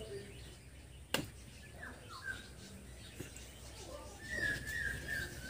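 Birds chirping: a few short falling chirps, then a longer warbling call near the end. A single sharp click about a second in.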